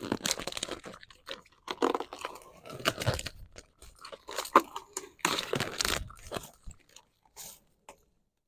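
Vinyl car wrap film being peeled off the paint by hand in several irregular pulls, which stop about a second and a half before the end.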